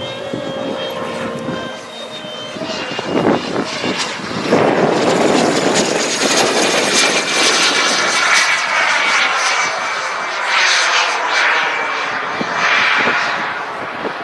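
Radio-controlled model jet flying past: a high-pitched whine that swells about four seconds in and slowly glides in pitch as the plane passes.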